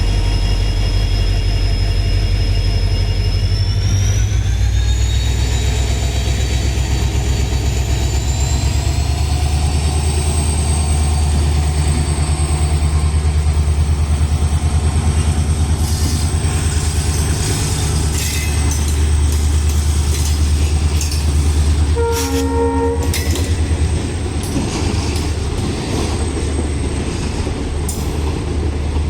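Diesel locomotive hauling a passenger train past: a heavy engine rumble with a high whine that rises over several seconds and then holds. About three-quarters of the way through the horn sounds briefly, and the wheels clack over the rail joints.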